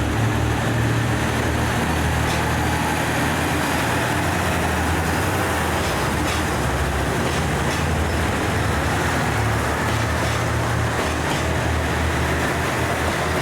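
Diesel railcar engine running with a steady drone, with a few faint clicks in the middle.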